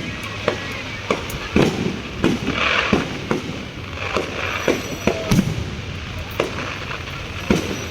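A fireworks display: shells bursting with sharp bangs at irregular intervals, roughly one or two a second, mixed with brief stretches of crackling hiss.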